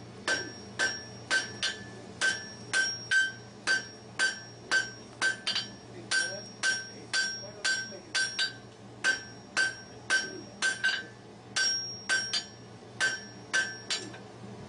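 Blacksmith's hand hammer striking hot iron on an anvil in a steady rhythm of about two blows a second, each blow ringing with a clear metallic note. This is the forge weld of the grille sections being worked along its edges.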